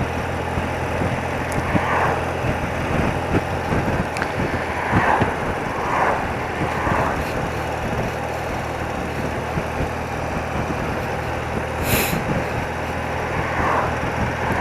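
Old BMW motorcycle's engine running steadily on the road, a low even hum under road and traffic noise. A brief sharp noise about twelve seconds in.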